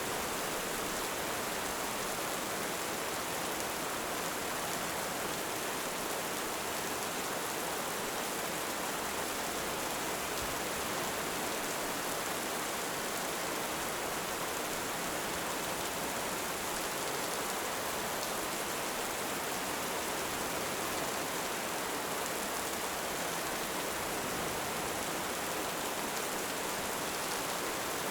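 Heavy rain falling steadily, an even hiss that holds one level with no swells or crackles standing out.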